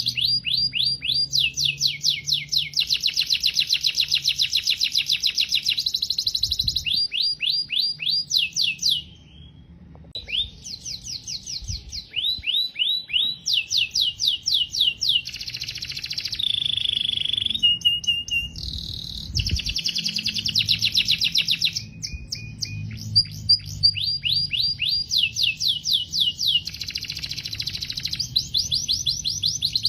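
Domestic canary singing: fast trills of repeated down-slurred whistled notes, changing from one run to the next. There is a short break about nine seconds in, and a few held notes in the middle.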